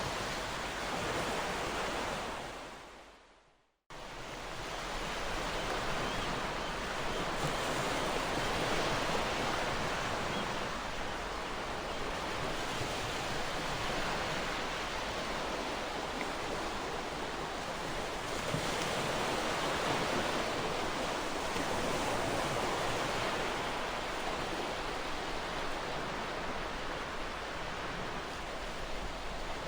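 Ocean surf: a steady wash of waves on the shore. About three seconds in it fades out to silence and then cuts back in abruptly, as at a splice between recordings.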